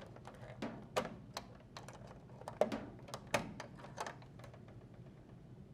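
Faint, irregular clicks and taps of wire connectors being pulled off the spade terminals of a dryer's start switch, about ten in the first four seconds.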